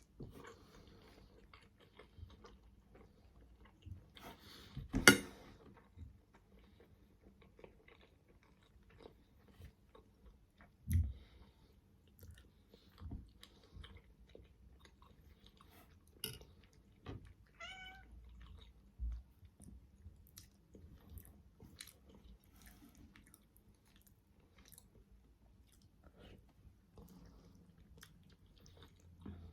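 Close-miked chewing and wet mouth sounds of eating steamed manty dumplings, with many small smacks and clicks. A sharp knock about five seconds in is the loudest sound, a duller thump comes near eleven seconds, and a short high wavering sound comes a little past halfway.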